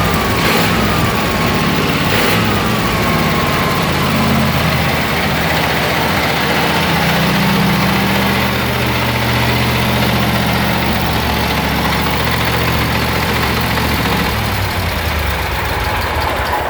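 Wisconsin VF4D air-cooled V4 gasoline engine running steadily on its new ignition coil, its speed wavering slightly, with a few light clicks in the first couple of seconds.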